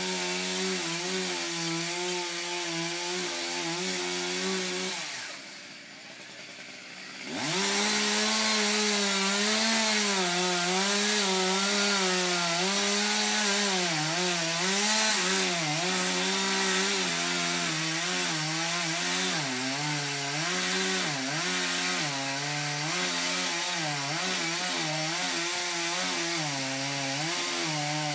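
Two-stroke chainsaw running at high revs, cutting into a windblown tree, its pitch dipping and rising as the chain loads up in the wood. About five seconds in the engine sound drops away for a couple of seconds, then comes back at full throttle.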